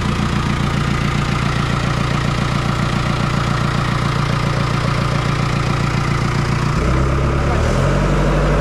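An engine running steadily with an even pulse. About seven seconds in, music with a stepping bass line comes in over it.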